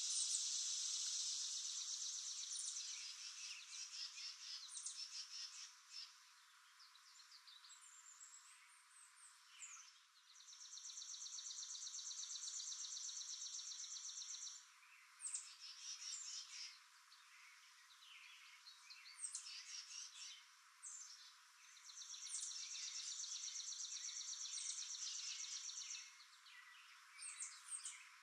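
Wild birds chirping, with long, even trills of about four seconds each that recur every ten seconds or so, and short chirps scattered between them.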